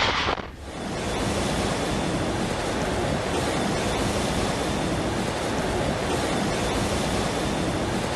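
Steady rushing noise of water, starting after a brief dip about half a second in.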